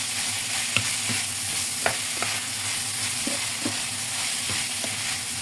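Ground pork with tomatoes and onions sizzling steadily in a nonstick frying pan while a plastic spatula stirs it, with a few light clicks and scrapes of the spatula against the pan.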